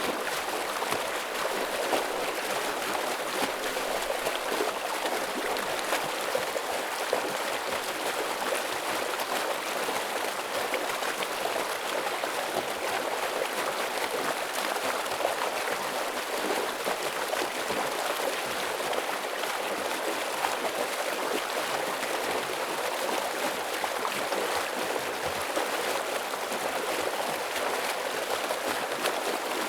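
Forest stream rushing steadily over rocks, a dense splashing flow.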